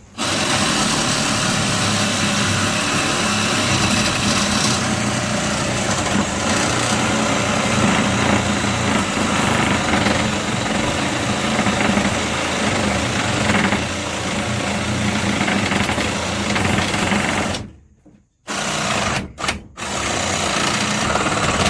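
Reciprocating saw (Sawzall) cutting through old galvanized steel water pipe, running steadily for about seventeen seconds and then stopping, followed by a few short bursts near the end.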